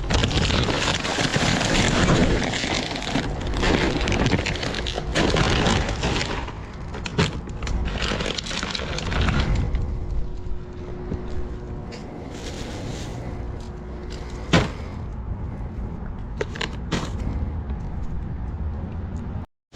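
Rummaging through trash: rustling and knocking as things are handled, with a sharp click about three-quarters of the way through.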